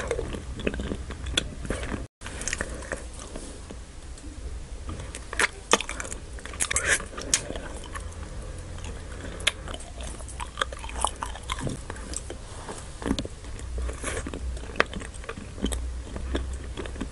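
Close-miked chewing of a Nik-L-Nip wax bottle candy: wet mouth clicks, smacks and crackles as the chewy wax is worked between the teeth, with a short dropout about two seconds in.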